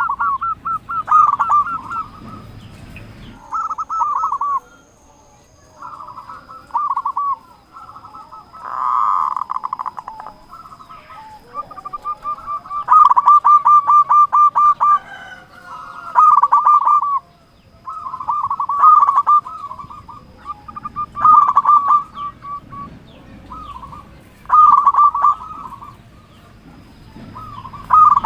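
Zebra dove (perkutut) singing its cooing song: runs of rapid, trilled coos repeated every couple of seconds. A short noisier burst comes about nine seconds in.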